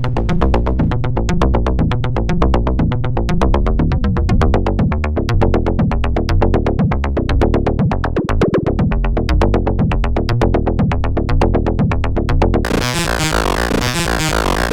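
Semi-modular analog percussion synthesizer playing a fast sequenced drum pattern over a deep bass pulse. About two seconds before the end, the sound switches to a brighter, noisier pattern.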